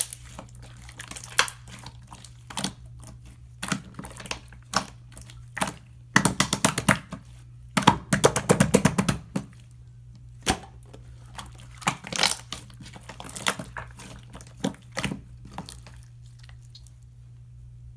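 Slime being squeezed and pressed by hand, making sharp wet clicks and pops, with two runs of rapid crackling about six and eight seconds in; the clicks die away near the end.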